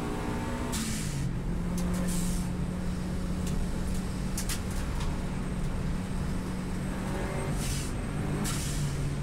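Subaru WRX STI's turbocharged flat-four engine heard from on board at speed: the note drops about a second in, holds steady for several seconds, then eases lower near the end. Short hissing bursts come every second or two over it.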